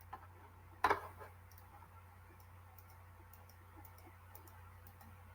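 Faint, irregular small clicks and ticks over a low steady hum, with one short, louder knock about a second in.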